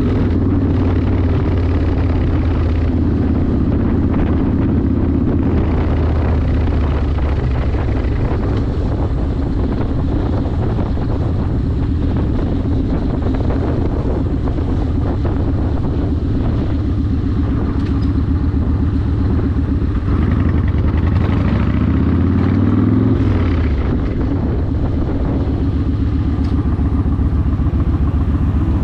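Yamaha Warrior 1700's air-cooled V-twin running through a custom exhaust while riding at a steady cruise. A little past two-thirds of the way through, the engine note rises as it accelerates, drops abruptly, then starts rising again near the end.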